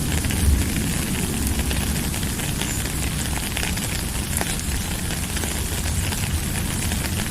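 Steady rain: a dense hiss of many small drop ticks over a steady low rumble.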